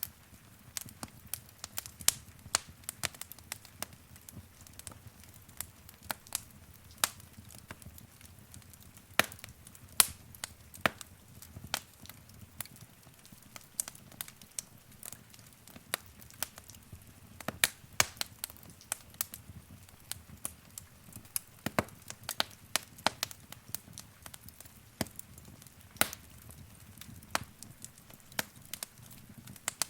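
Wood fire crackling in a fireplace: irregular sharp snaps and pops, several a second, over a low, steady rumble of flames.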